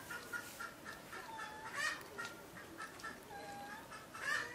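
Birds calling: a quick run of short high chirps, with a louder call about two seconds in and another near the end.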